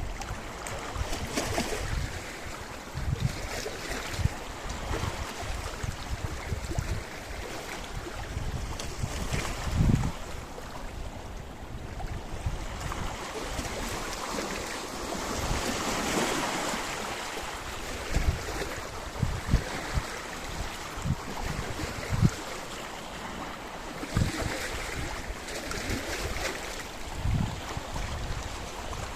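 Sea waves breaking and washing on a rocky shore, the surf swelling about halfway through. Wind buffets the microphone in short low rumbles.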